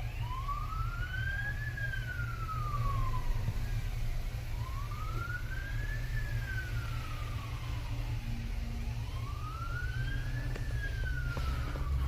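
A siren wailing in a slow rise and fall, three sweeps about four and a half seconds apart, which sounds like a police siren. A steady low rumble lies underneath.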